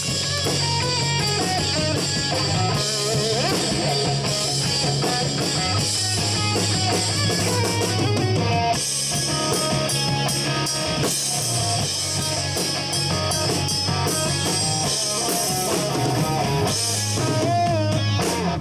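Live country-rock trio playing an instrumental passage without vocals: guitar over electric bass and a drum kit.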